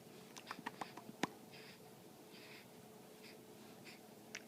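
A baby's faint mouth noises: a quick run of small lip and tongue clicks, then soft breaths about once a second.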